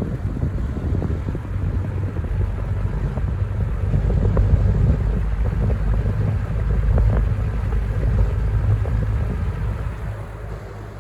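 1994–95 Lasko box fan running at low speed, its air stream buffeting the microphone with a steady low rumble over the motor's hum. The rumble eases off near the end.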